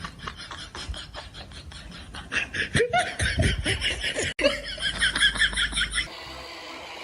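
A person laughing hard in rapid bursts, louder from about two seconds in, then cutting off abruptly near the end.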